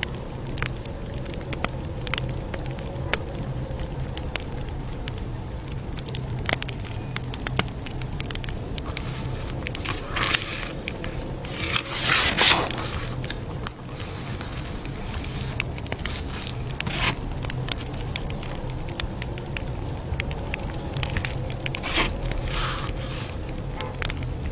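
Campfire crackling steadily, with frequent small pops and a low steady rumble underneath. Several louder rustling bursts stand out, the largest about halfway through.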